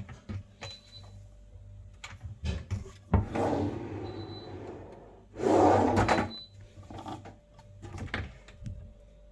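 Cupboard doors and drawers being opened and closed in a small room: scattered knocks and clicks, with a longer sliding rush a little after three seconds in and a louder one just past the middle.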